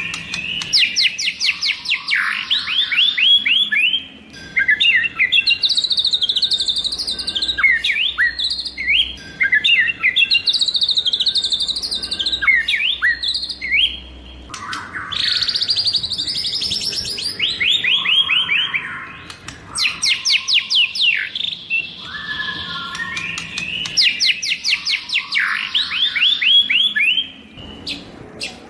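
White-rumped shama singing: loud, varied phrases of fast repeated sweeping whistles, about ten notes a second, alternating with choppier chattering notes, with two brief pauses between phrases.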